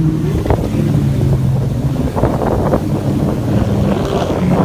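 Jet ski engine running at a steady pitch, with wind buffeting the microphone and irregular splashes of water against the hull.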